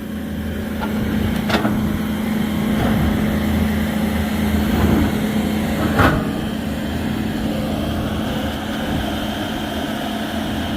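Diesel engine running steadily on heavy equipment during loading, with two short metallic knocks, about a second and a half in and again at about six seconds.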